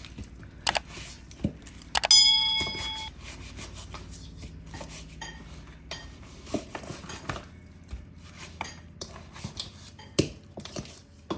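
Kitchen dishes and utensils clinking and knocking, with scattered small clicks. About two seconds in, one loud clink rings on for about a second.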